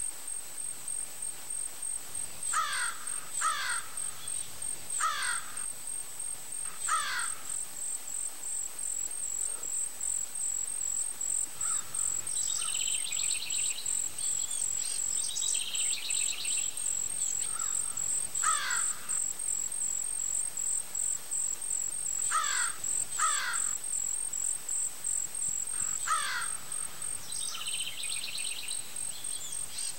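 Birds calling: short downward-sweeping calls, singly or in quick pairs, repeated every few seconds, with a few buzzy chattering calls in between, over a steady high-pitched whine.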